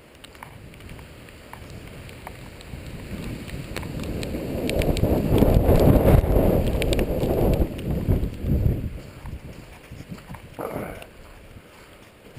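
A gust of wind buffeting the microphone, a rumble that builds over several seconds, peaks about halfway through and dies away.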